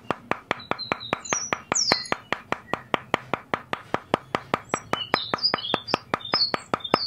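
Small metal-headed hammer tapping a thin wooden stick into sand, a steady run of quick light taps, about five a second. Birds chirp in the background.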